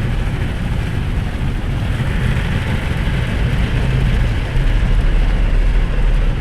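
Automatic car wash working over a car, heard from inside the cabin: a steady loud rumble and hiss, a little louder for the last two seconds or so.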